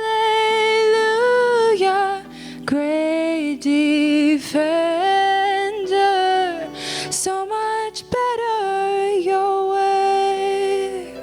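A woman singing long, held notes with slides between them, with no clear words, over soft sustained instrumental backing in a slow worship song.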